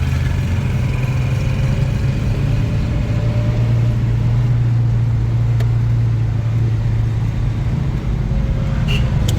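Steady low rumble of a vehicle on the move, holding an even level throughout.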